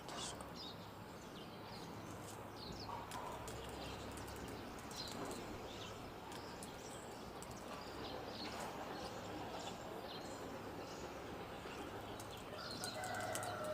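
Birds chirping, short scattered calls over a steady low background rumble of wind or distant traffic. Near the end a lower, held call with a clear pitch comes in.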